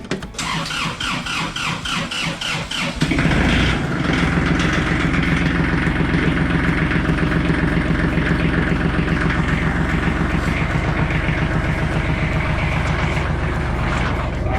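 Kubota tractor's diesel engine being started: the starter cranks in a quick pulsing rhythm for about three seconds, then the engine catches and settles into a steady idle.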